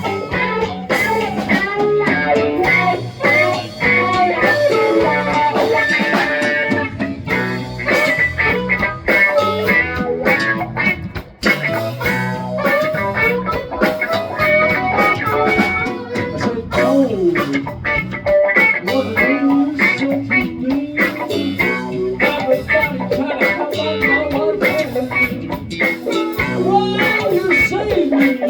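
Blues-rock band playing an instrumental break: guitar, bass and drums, with a lead line that bends in pitch.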